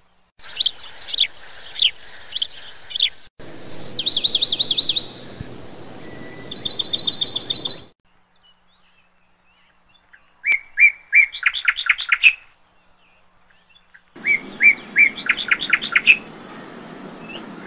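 Birdsong: a run of sharp chirps, then fast trills, coming in separate stretches that start and stop abruptly with silent gaps between. In the second half the same short song, a few even notes followed by a fast trill, is heard twice.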